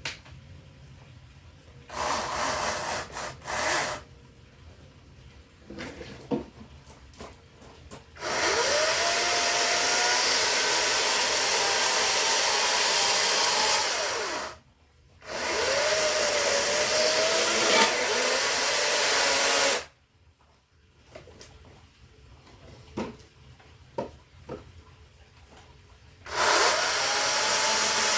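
Electric power saw cutting firewood in four runs of a few seconds each. The motor pitch rises as it spins up and sags as it bites into the wood, and it stops fully between cuts, with a few knocks of wood being handled.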